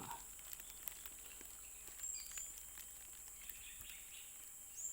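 Small wild birds giving a few short, high chirps, about two seconds in and again near the end, over a steady high-pitched insect drone.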